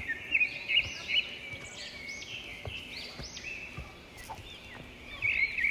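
Birds singing, a chorus of many short, quick chirps rising and falling in pitch, overlapping one another.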